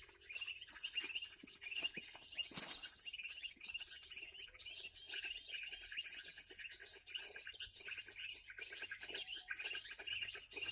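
Bird-call lure recording playing through a small cheap speaker: a steady stream of rapid, high-pitched chirps and twitters. There is a brief rustle about two and a half seconds in.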